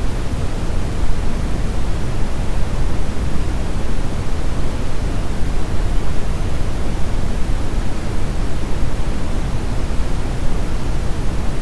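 Brown noise: a steady, even hiss-like rush weighted heavily toward the low end, with no tones or events.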